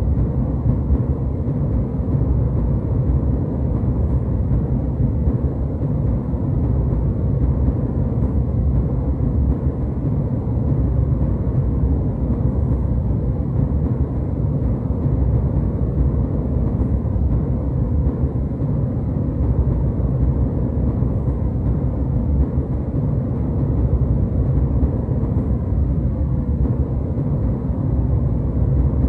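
Jet airliner cabin noise in flight: a steady, even low rumble with no changes.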